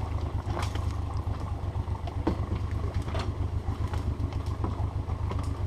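Steady low rumble in a small boat, with scattered knocks and bumps from gear and hands against the hull as the boat is pushed out.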